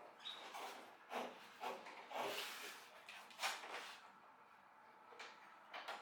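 Irregular knocks, scrapes and clatter of parts and tools being handled, busiest in the first four seconds with a quieter stretch near the end.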